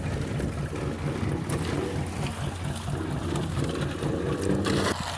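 Fishing boat's engine running steadily, with wind noise on the microphone and a few knocks; the wash of noise cuts off just before the end.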